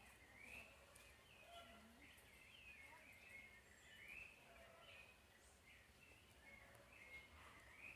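Faint bird chirps and short whistles, repeating irregularly over quiet woodland background.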